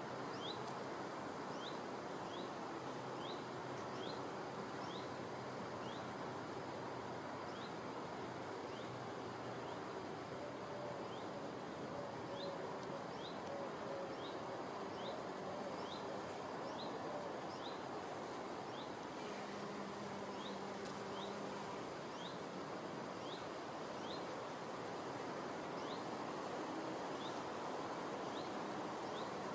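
Bumblebee buzzing on and off as it flies among the flowers, a low hum that comes and goes, over steady outdoor hiss. A bird repeats a short, rising high chirp about once or twice a second throughout.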